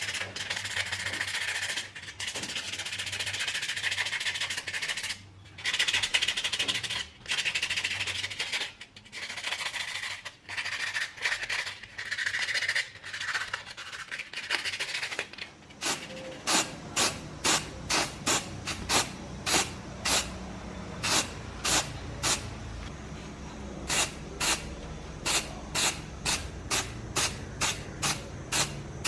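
Rubbing or sanding strokes on a small part, with gaps between them. From about halfway through, a quick run of short spray-paint puffs, about two a second, over a low steady hum.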